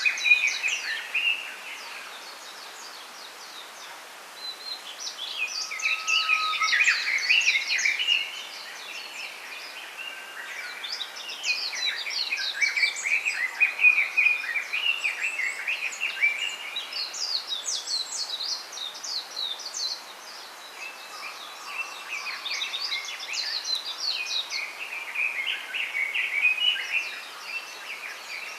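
Small songbirds chirping and twittering in several bouts of rapid, busy song a few seconds long each, with short lulls between, over a steady faint background hiss.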